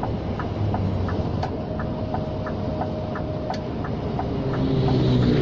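Scania G460 truck's diesel engine running, heard inside the cab, with a regular ticking about three times a second. The engine grows louder near the end.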